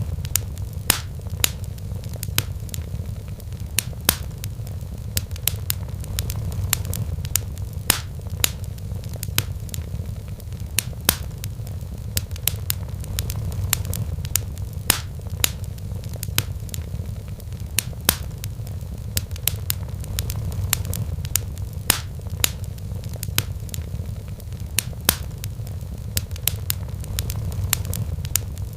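Wood fire burning in a fireplace, crackling with sharp, irregular pops several times a second over a steady low rumble.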